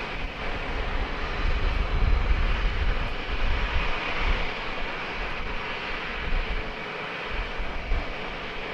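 Jet aircraft engine noise from a plane passing at an airport runway: a rumbling roar that swells about two seconds in and then eases, with a steady hiss above it.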